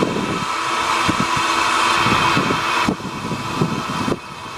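Narrow-gauge train pulling into a station: a steady hissing noise with irregular low thumps, dipping in level about three seconds in and again near the end.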